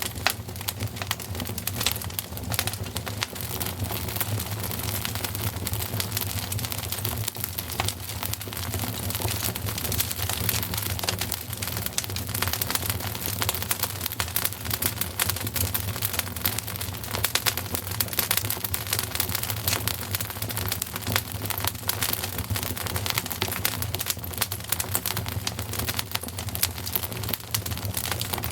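Wood fire in a fireplace crackling steadily, with dense irregular pops and snaps over a steady low rumble.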